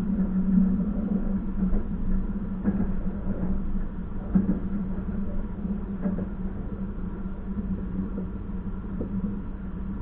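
Train carriage running along the track, heard from on board: a steady hum with scattered short knocks and rattles.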